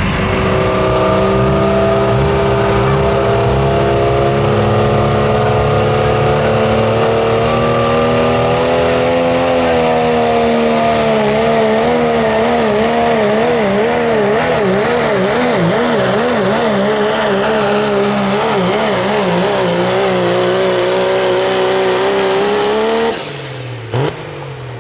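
Diesel 4WD pickup truck engine running at full throttle through a pull with the sled. The pitch rises slowly at first, then wavers rapidly up and down through the second half as the truck bounces and its wheels hop, and the engine note drops off suddenly near the end.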